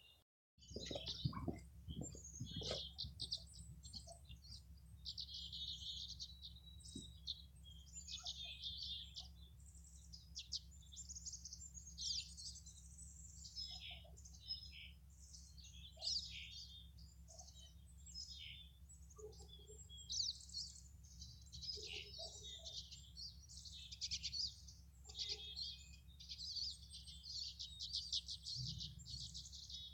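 Tree swallows twittering: many short, rapid, high chirps in quick runs, coming and going all through, over a faint steady low hum.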